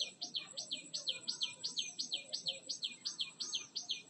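A garden bird calling in a fast, even string of short down-slurred chirps, about five a second, without a break.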